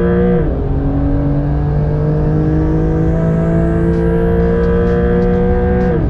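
Porsche 992 911 GTS twin-turbo flat-six at full throttle, heard from inside the cabin. It upshifts from third to fourth about half a second in, pulls steadily rising in pitch through fourth gear, then upshifts to fifth near the end.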